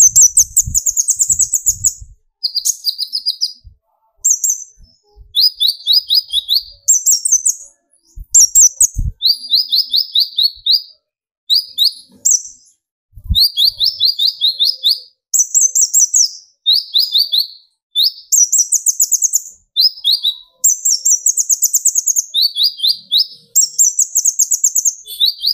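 Kolibri ninja, a small sunbird, singing its excited 'tembakan' song: rapid high trills in short bursts of about a second, switching back and forth between a higher and a lower pitch with brief pauses between phrases. A couple of faint low knocks come in about halfway through.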